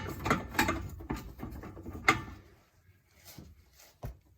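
Hand ratchet wrench working on the exhaust X-pipe bolts: a run of sharp clicks and clanks over the first two seconds, then it goes faint, with one low knock near the end.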